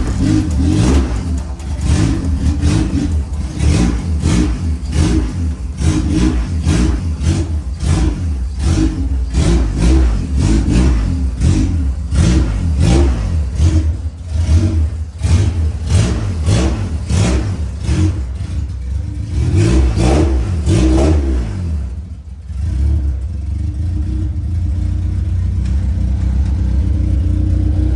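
Honda CRX Si engine revved over and over in short surges, then dropping about 22 seconds in to a steady idle.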